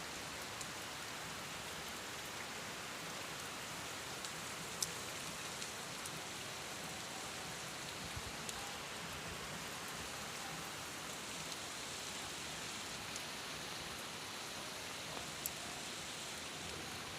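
Steady rainfall: an even hiss of rain on surfaces, with a few sharp drip or tap clicks standing out, the loudest about five seconds in.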